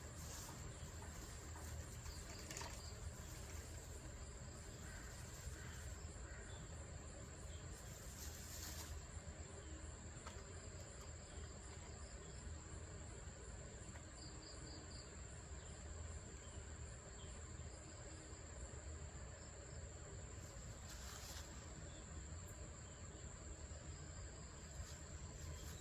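Insects chirping: a steady high-pitched trill with a faster pulsing chirp above it, over a faint low hum.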